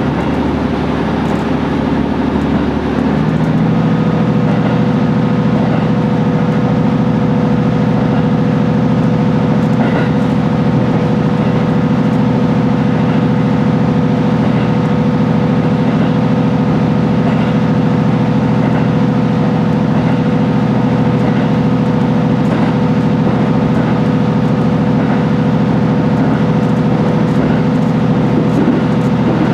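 HB-E210 diesel-hybrid railcar running, its engine-generator hum a stack of steady low tones. About three seconds in the tones step up to a higher steady pitch and a thin steady whine joins them, then the sound holds level.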